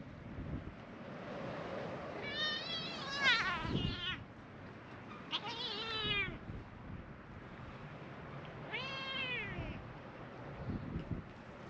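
Cats meowing: several drawn-out meows of about a second each, falling in pitch at the end, a few seconds apart.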